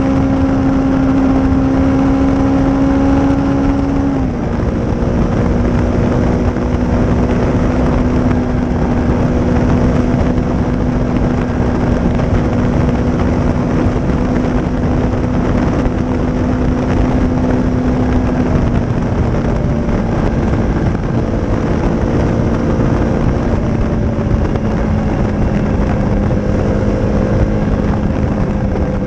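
Honda CRF250's single-cylinder four-stroke engine, breathing through a Leo Vince aftermarket exhaust, running at a steady cruise under a constant rush of noise. Its note drops a little about four seconds in and then falls slowly over the rest of the stretch as the bike eases off.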